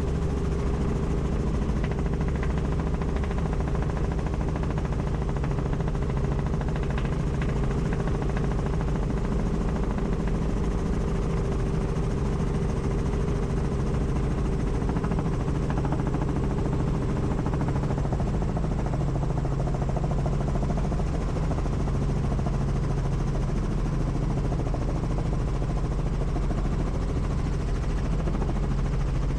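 Helicopter's rotor and turbine engine running steadily, heard on board: a fast, even beat of the rotor under a steady hum.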